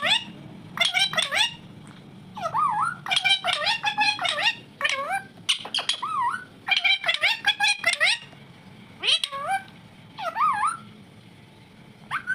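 Indian ringneck parrot calling in a string of short, chattering bursts of high, warbling notes, with short pauses between them.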